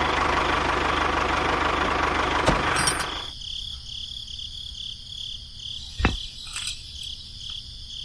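A small motor running with a rough, noisy whirr for about three seconds, then cutting off suddenly. A rapid cricket-like chirping continues after it, with a single knock about six seconds in.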